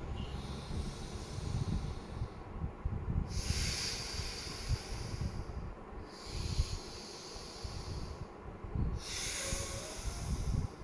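Slow alternate-nostril breathing (Anulom Vilom pranayam): a series of long, hissing breaths drawn in and let out through one nostril at a time, each lasting about two seconds with short pauses between. A steady low rumble lies underneath.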